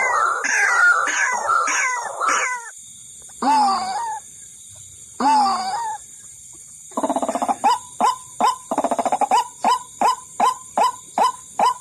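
White-breasted waterhen (ruak-ruak) calls played as a trapping lure. First comes a run of quick falling notes, then two longer calls with pauses between them. About seven seconds in, a rattling burst leads into evenly repeated notes, about two a second, over a steady recording hiss.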